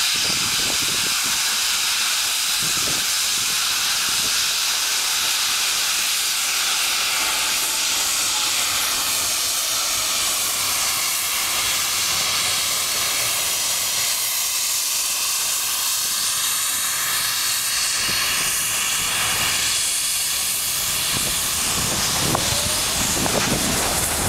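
QJ-class 2-10-2 steam locomotive hissing steam, a steady high hiss. A lower rumble joins it near the end.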